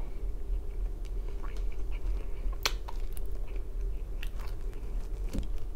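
A person chewing a mouthful of pizza crust close to the microphone, with a few sharp clicks and crunches now and then over a steady low hum.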